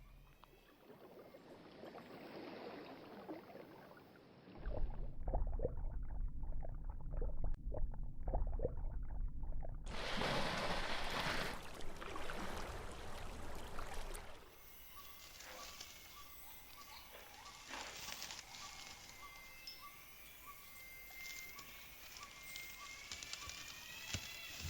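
Rainforest ambience in several cuts. A low rumble sets in a few seconds in and, about ten seconds in, a loud noisy stretch joins it. From about halfway, animal calls take over: a repeated rising chirp and an evenly pulsed note.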